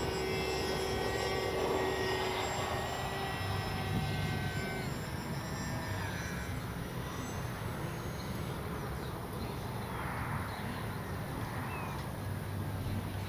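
HobbyZone AeroScout RC plane's electric motor and propeller whining in flight. The pitch drops about five seconds in, and the whine grows fainter in the second half, over a low rumble of wind.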